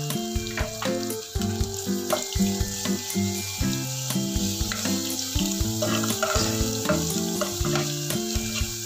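Minced garlic and dried shrimp sizzling in hot oil in a nonstick pot, with a metal ladle stirring and scraping the bottom in repeated short strokes.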